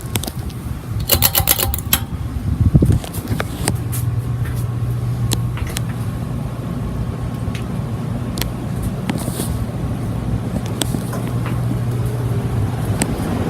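Olympia MFG five-blade ceiling fan running, with a steady low motor hum under the rush of moving air. A cluster of clicks and knocks comes in the first three seconds, before the hum settles in.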